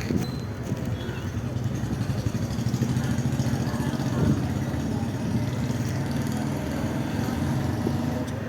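A vehicle running steadily with a low, even rumble.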